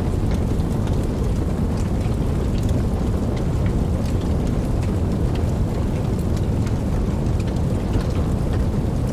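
Steady rain with a deep, even rumble underneath and scattered ticks of individual drops.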